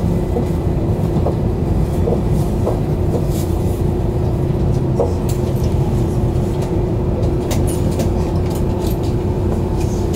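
Cabin noise inside a JR East E2 series Shinkansen car as it runs slowly into Fukushima station: a steady low rumble with a constant hum and scattered light clicks and ticks from the wheels and running gear.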